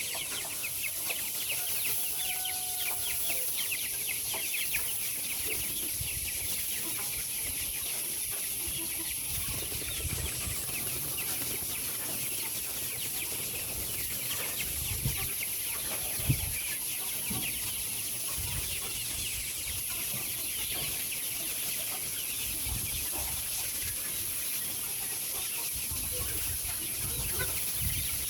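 A large flock of chickens in a poultry house, many birds clucking and peeping at once in a dense, steady chatter. A single sharp knock comes about sixteen seconds in, over uneven low rumbles in the second half.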